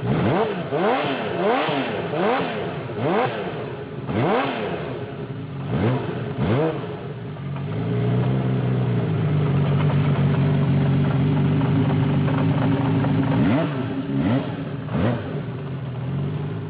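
Honda CBX inline-six motorcycle engine being revved in quick blips of the throttle, each rising and falling in under a second. About halfway through it is held at a steady raised speed for several seconds, then blipped twice more.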